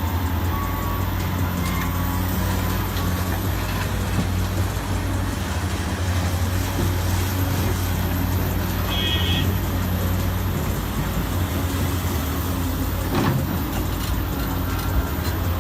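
Heavy truck engine running steadily as a low drone under dense road and mechanical noise. A brief high-pitched squeal comes about nine seconds in, and a single knock about thirteen seconds in.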